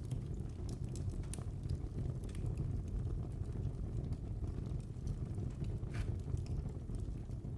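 Wood fire burning in a fireplace: a steady low rumble of flames with scattered crackles and pops, one sharper pop about six seconds in.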